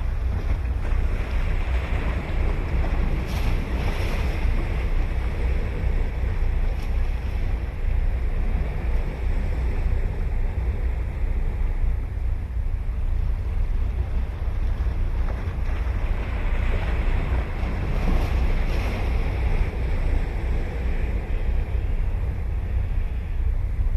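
Ocean waves breaking on a beach, the surf wash swelling twice, once near the start and again past the middle, over a steady low rumble of wind on the microphone.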